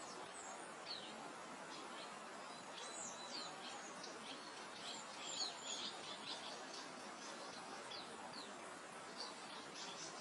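Songbirds chirping and twittering, many short high calls and quick pitch glides throughout, over a steady soft hiss of wind through grass.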